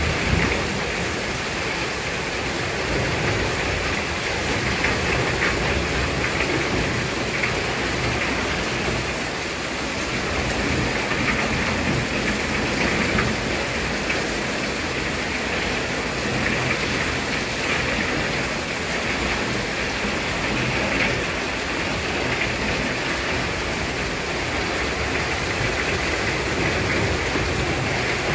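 Heavy rain pouring steadily in strong wind, a dense even hiss with a shifting low rumble.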